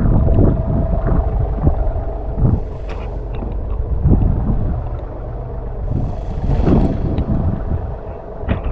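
Wind buffeting the microphone in a snowstorm as a heavy, steady low rumble. Irregular short crunches of footsteps in deep snow come through it.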